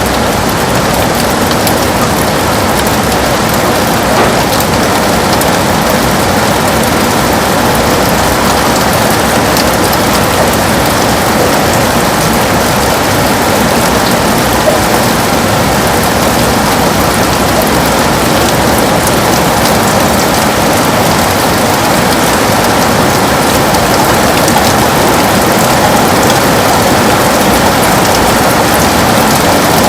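Heavy rain falling steadily on a window, a constant dense patter with no breaks.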